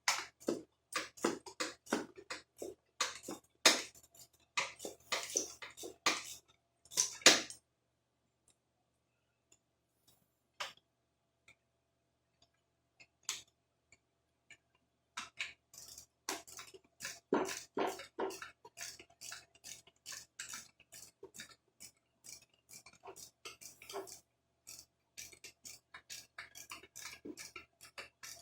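Metal hand tools and small metal parts clicking and clinking in irregular taps as parts are bolted back onto a small four-wheeler's carburetor. There are two busy stretches with a quiet lull of several seconds between them.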